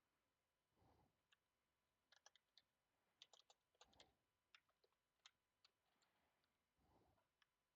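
Faint computer keyboard typing: irregular key clicks, thickest in the middle stretch, with a few soft low rustles in between.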